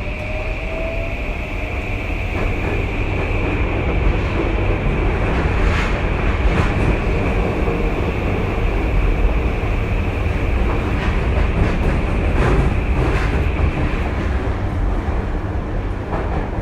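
Tokyu 2020 series electric train running, heard from inside the car: steady wheel-on-rail rumble that grows over the first few seconds. A rising traction-motor whine ends about a second in, a few clacks come over rail joints, and a steady high tone fades out near the end.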